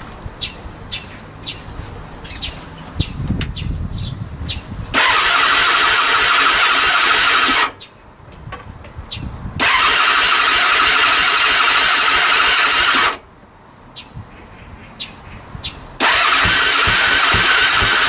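Rebuilt Honda CB400 four-cylinder engine being cranked on its starter in three bursts of about three seconds each, cutting off suddenly between tries, with light clicking before the first. The engine does not catch and run.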